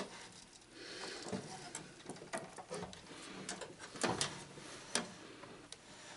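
Scattered light clicks and knocks of metal parts and tools being handled while a microwave oven is taken apart, the loudest pair about four seconds in.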